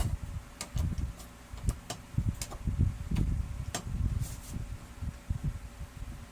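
Irregular clicks and knocks with low thuds in between, like plastic and metal printer parts being handled and fitted by hand.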